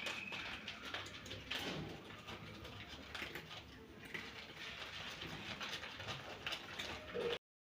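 Cats eating dry kibble: faint, irregular crunching and small clicks. The sound cuts out abruptly near the end.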